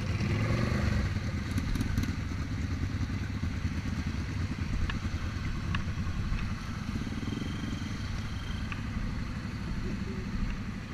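Motorcycle engine idling with a steady low, rapid pulse, and a few faint clicks over it.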